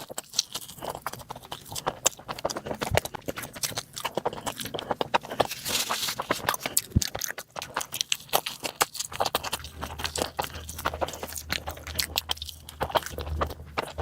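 Close-miked eating sounds: rapid wet chewing and mouth smacking, with quick clicks running throughout. A low steady hum joins in about two thirds of the way through.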